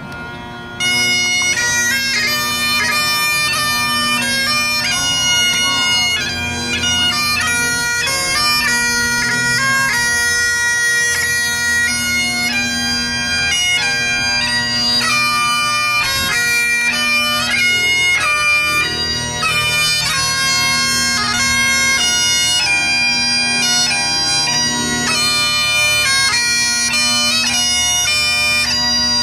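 Bagpipes playing a slow tune over their steady drones, starting suddenly about a second in.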